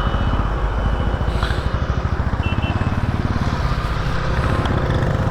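Motorcycle engine idling steadily, its low firing pulses even and unbroken.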